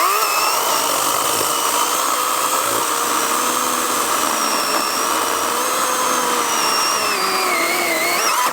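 Kobalt 80V battery-powered electric chainsaw running at full speed: a steady high motor-and-chain whine that sags slightly in pitch near the end.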